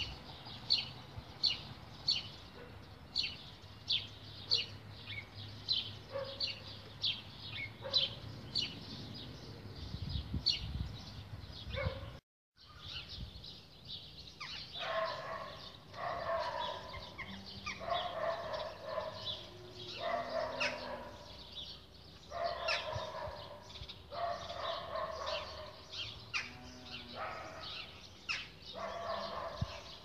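Garden birds calling: first a small bird repeating a short high chirp about one and a half times a second; then, after a brief break, louder and lower calls about a second long that repeat every second and a half or so, with high chirps over them.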